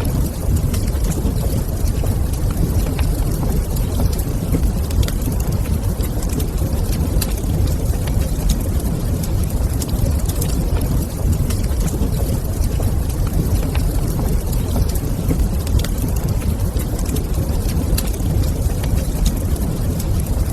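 Wood fire crackling in a fireplace: scattered sharp pops and clicks over a steady low rumble.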